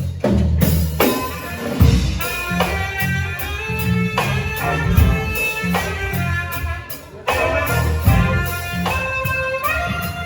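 Band music in a jazzy style, with a drum kit under long held melody notes; the sound dips briefly about seven seconds in, then comes back in full.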